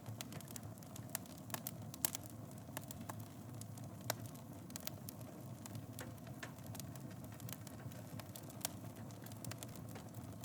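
Wood fire in a fireplace crackling: irregular sharp pops and snaps over a steady low rumble of the flames, with louder pops about two seconds and about four seconds in.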